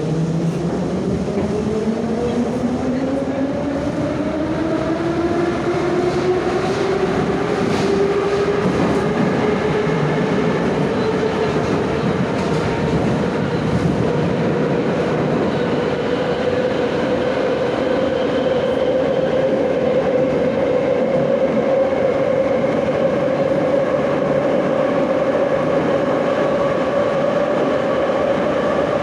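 Moscow Metro 81-717/714 "Nomernoy" subway train heard from inside the car as it accelerates away from a station. The traction motor and gear whine climbs steadily in pitch for about the first fifteen seconds, then levels off at cruising speed over the constant rumble of wheels on rail.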